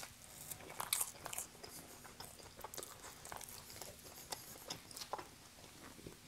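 Pizza crust being chewed: soft, irregular mouth clicks and smacks.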